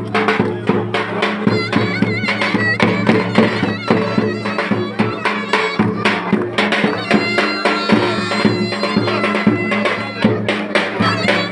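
Lively Turkish folk dance music: a fast, ornamented melody over steady low held notes, with regular drum beats.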